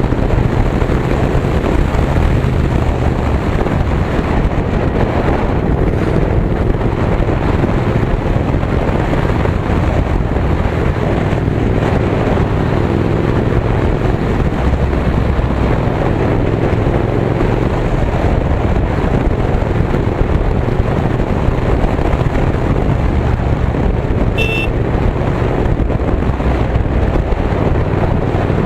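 Royal Enfield Continental GT 650's parallel-twin engine running steadily through an AEW TE 102 exhaust with the dB killer removed, heard from the moving motorcycle with wind noise on the microphone. A brief high beep sounds near the end.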